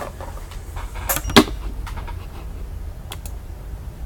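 Scattered light clicks and handling noises over a low hum, with a brief rustle and then one sharp knock about a second and a half in.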